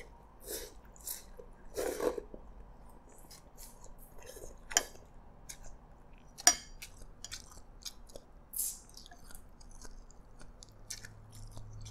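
A person chewing a mouthful of Hokkien prawn noodles close to the microphone, with soft wet mouth sounds and many small clicks. Two sharp clicks, about five and six and a half seconds in, are the loudest sounds.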